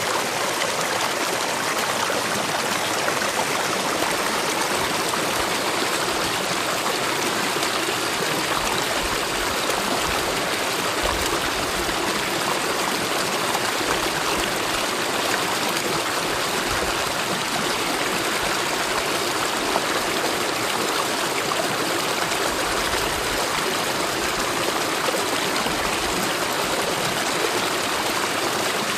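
Mountain valley stream flowing steadily, a continuous rush of water, with a few brief low rumbles now and then.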